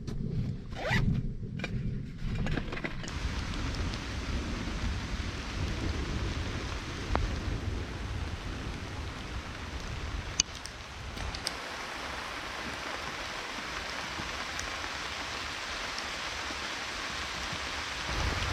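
Steady rain during a thunderstorm, with a low rumble of thunder that dies away a little past halfway. In the first few seconds there are a few short rasping strokes over the rain.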